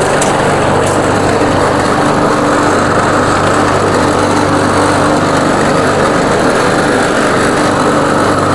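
140cc MTD PowerMore single-cylinder engine on a walk-behind lawn mower running steadily at speed without a break, being warmed up to full operating temperature.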